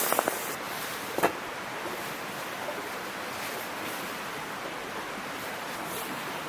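Small mountain stream babbling steadily, with a few light clicks or knocks in the first second and a half.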